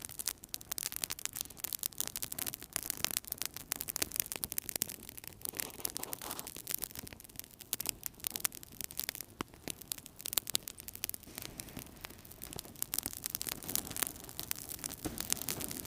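Wood fire burning in a fireplace, crackling with a dense, irregular run of sharp pops and snaps over a steady low hiss of burning.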